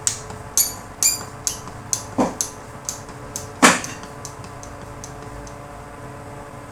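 Sharp metallic clicks and knocks, about a dozen in the first four seconds, with two heavier knocks among them: the plastic and metal parts of an opened Bosch angle grinder being handled and tapped apart during disassembly.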